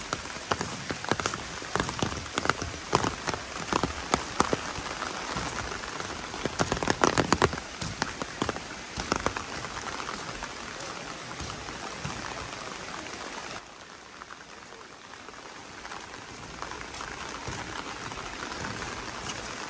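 Rain falling, with many sharp drop hits over a steady hiss; about two-thirds of the way through it drops suddenly to a quieter, even rain noise.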